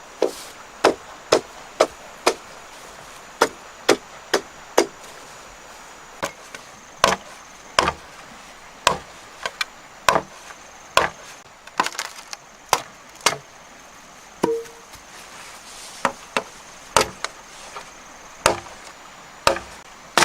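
Wood being chopped with a blade: a long series of sharp, irregular chops, roughly one or two a second, with a short pause about two-thirds of the way through.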